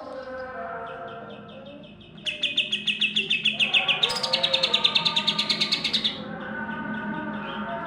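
Cucak hijau (green leafbird) singing in quick repeated notes. About two seconds in it breaks into a loud, rapid trill of about ten notes a second, which steps higher in pitch midway and stops abruptly after about four seconds. This is the rapid-fire burst that bird keepers call 'tembak'.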